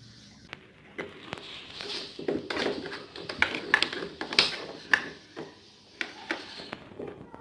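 Irregular clicks, taps and light knocks, several a second at times, of small hard objects being handled.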